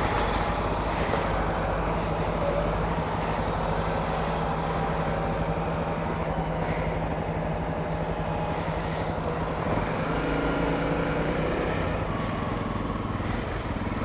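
Honda CRF250L's single-cylinder four-stroke engine running steadily at low speed, heard from the rider's helmet. From about ten seconds in, higher tones rise and fall over it.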